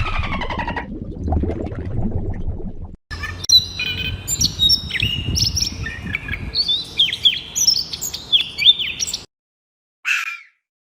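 Small birds chirping and tweeting in many quick, sharply rising and falling notes that stop abruptly. Just before that, a short pitched animal call fades out over low noise, and one brief noisy call follows after a pause.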